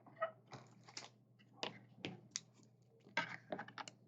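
Irregular light clicks and taps from trading cards and plastic card holders being handled on a table, about nine sharp ticks spread over the few seconds.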